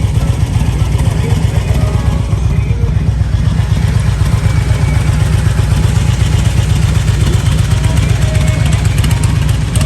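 Motorcycle engine running with a steady low rumble, and faint voices in the background.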